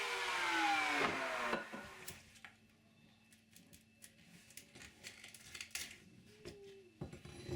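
A woodworking power tool's motor winding down after being switched off, its whine falling in pitch and fading within about a second and a half. A few faint clicks and knocks of wood being handled follow.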